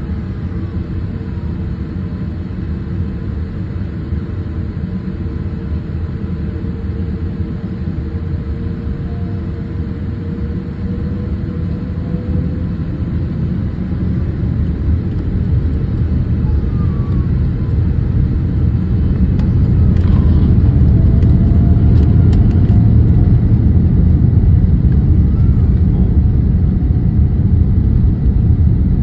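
Cabin noise inside a Boeing 787 airliner: a steady low rumble that grows louder from about halfway through and then holds, with a faint whine gliding in pitch.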